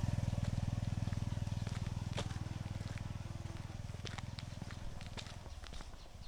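A small motorcycle engine running with a fast, even putter, growing steadily fainter as it moves away, with scattered sharp clicks over it.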